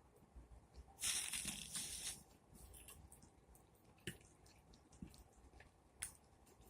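Close-up wet mouth sounds of eating: a loud, wet noisy burst about a second in that lasts about a second, then a few scattered short clicks and smacks while chewing.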